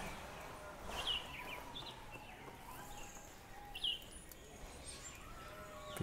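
Quiet outdoor background with two brief, faint bird chirps, about a second in and again near the four-second mark.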